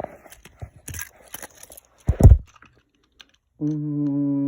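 Clicking and rattling of a plastic push-along toy engine and tender being handled and coupled together, with a loud thud a little after two seconds in. Near the end comes a steady low hum, held for about a second.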